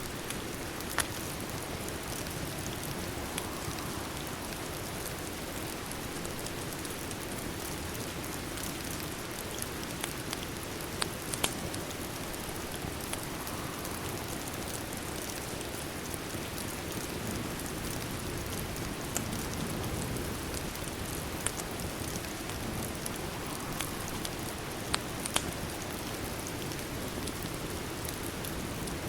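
Steady rain on a window, a constant even hiss, with a wood fire crackling in sharp single pops every few seconds.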